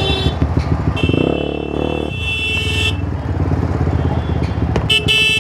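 Bajaj Pulsar NS 200's single-cylinder engine running through a loud, free-flowing Akrapovic exhaust while riding in traffic. Vehicle horns sound from about a second in and again near the end.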